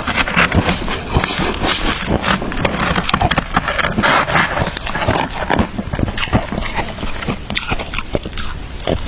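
Shaved ice crunched and chewed close to the microphone: a dense, steady run of crisp cracks and crackles.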